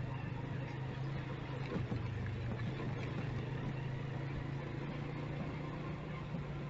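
Motorcycle engine running at a steady, even pitch, with light street traffic noise around it.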